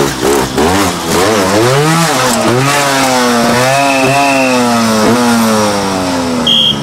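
Trials motorcycle engine revved in quick throttle blips, then running on with its pitch slowly falling over several seconds.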